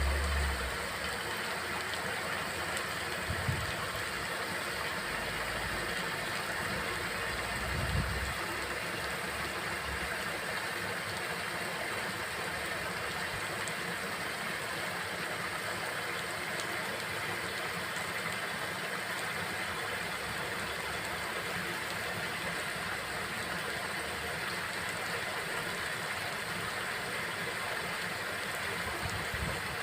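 Steady rain falling, an even hiss with no change in intensity, with a couple of brief low thuds in the first eight seconds.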